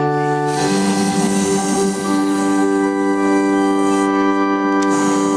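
Electric keyboard playing sustained organ-like chords, changing chord about a second in and again about two seconds in.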